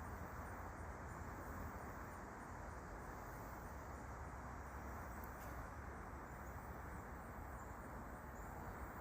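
Faint outdoor nature ambience: a steady low hiss and rumble, with faint, evenly repeating high-pitched insect chirping.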